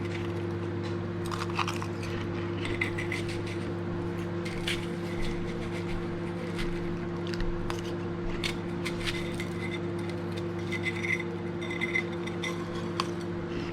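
Microwave oven running with a steady hum, while a spoon clinks and scrapes against a bowl in short, scattered ticks.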